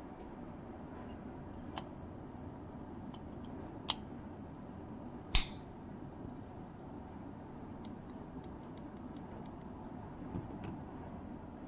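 Sharp clicks and taps of small hard parts being handled, three distinct ones with the loudest about five seconds in, then a scatter of faint ticks, over a steady low hiss.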